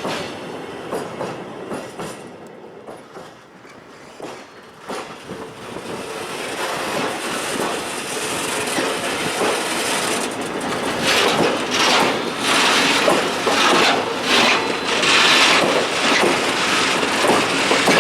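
Loaded hopper wagons pushed by a TEM2 diesel shunter along an industrial track, wheels clacking over rail joints with some wheel squeal. The sound dips about four seconds in, then grows steadily louder as the train comes closer, with clacks standing out in the second half.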